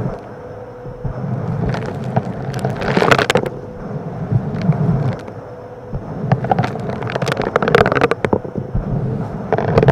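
Vacuum cleaner sucking up small rocks: a steady motor hum, with rapid clattering and crackling of stones through the hose that comes in bursts, heaviest about two to three seconds in, around seven to eight seconds in and near the end.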